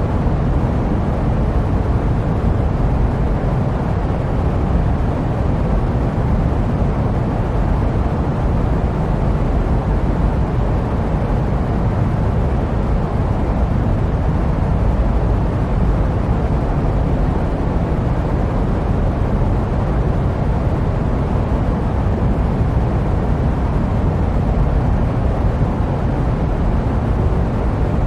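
Steady jet airliner noise: an unbroken, deep rumbling hiss with most of its weight in the low end.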